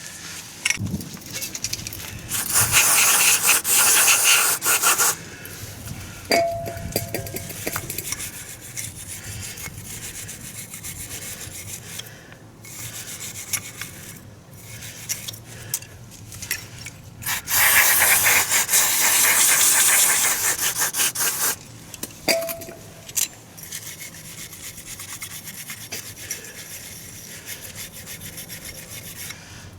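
Workshop work sounds: two spells of harsh rasping or scrubbing noise, a few seconds each, the second one longer. Each is followed by a short metallic ring, with light knocks and handling of tools and parts in between.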